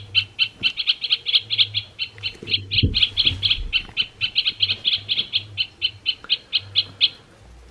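A recorded great spotted woodpecker call played from a Wild Republic plush bird's sound box: a fast, even run of sharp, high calls, about six a second, that stops about seven seconds in.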